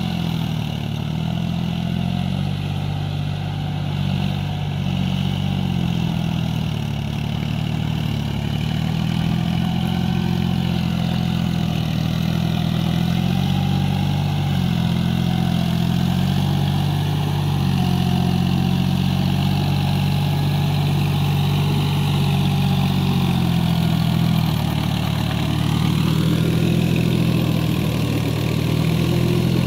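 John Deere 5045D tractor's three-cylinder diesel engine running steadily, its pitch wavering as the load changes, with the engine speed rising near the end.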